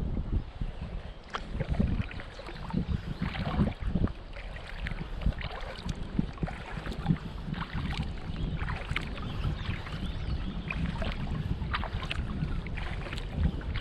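Kayak paddle dipping and splashing in the water, with wind buffeting the microphone as a low rumble throughout.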